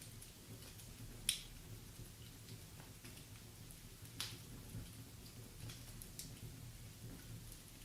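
Wood fire in a fireplace crackling, with small ticks throughout over a low, steady rumble of the flames. There are two sharper pops, about a second in and again around four seconds.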